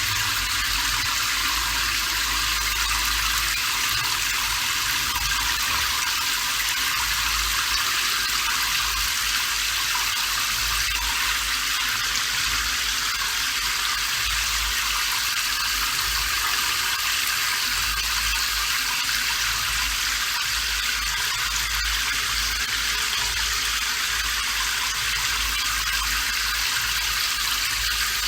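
Steady rain falling: an even, unbroken hiss, mostly high in pitch, with a faint low rumble underneath.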